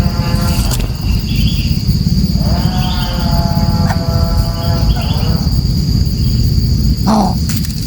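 A coucal (burung bubut) calling with deep, repeated notes in stretches of a few seconds, over a steady high-pitched cricket trill.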